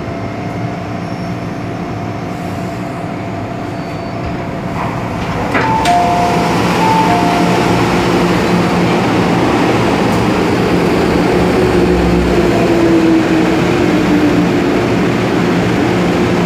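MTR M-Train running between stations, heard from inside the car: steady running noise with some faint tones. About five and a half seconds in there is a click, and the noise suddenly gets louder and stays louder.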